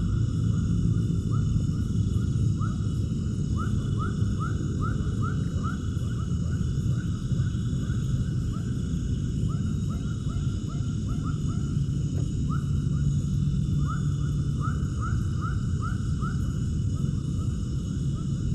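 Animal calls: runs of short rising chirps, about two or three a second, coming in bursts over a steady low rumble.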